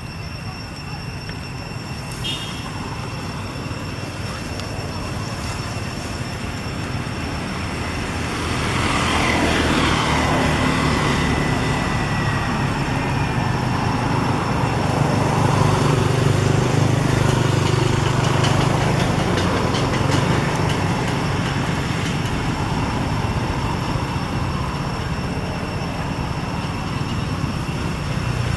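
A motor vehicle's engine running steadily, growing louder about eight seconds in into a low drone.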